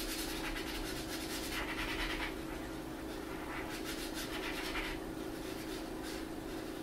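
Marker pen drawing on paper in a few scratchy strokes, the longest in the first two seconds, with a faint steady hum underneath.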